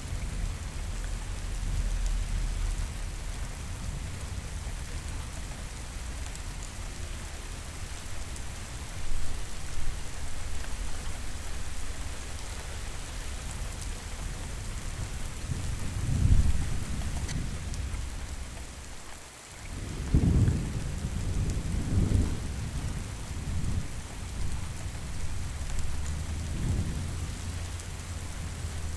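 Steady rain with thunder rumbling. Low rolls of thunder swell about halfway through and again twice more in the last third, just after a brief lull in the rain.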